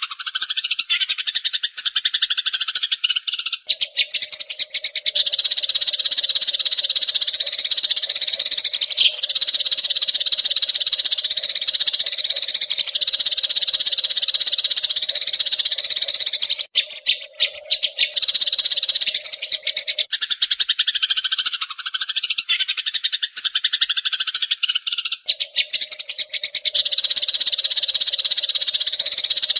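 Wild Eurasian tree sparrows chirping and chattering in a dense, unbroken stream. A steady low drone sits underneath, fading out for a few seconds in the middle and then returning.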